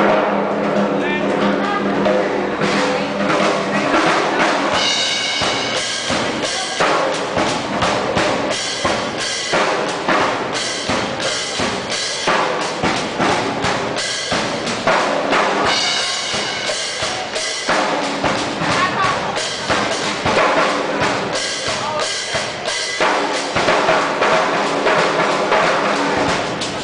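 Subway street drummer playing a fast, busy rhythm on drums, with dense rapid strikes and bass drum and snare hits.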